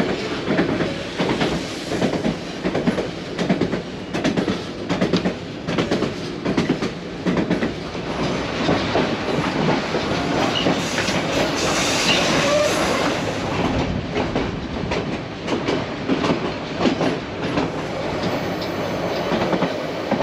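Vintage passenger coach of the White Pass railway running along the track, its wheels clicking over the rail joints and the car rattling. About halfway through, the running noise turns into a smoother, louder rush for a few seconds.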